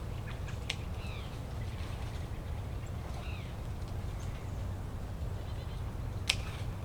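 Steady low rumble with two short arching animal calls, about a second and three seconds in, and two sharp clicks, the louder one near the end.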